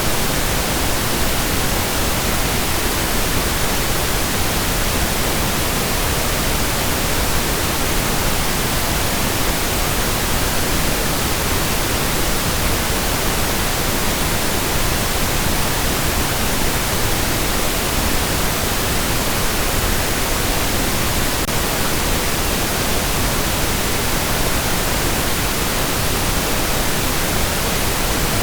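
Steady pink noise: an even, unchanging hiss spread across all pitches, with no voice or music.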